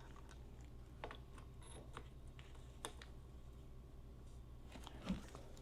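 Faint, scattered clicks and light knocks of motorcycle parts being handled and fitted into place, over a steady low hum.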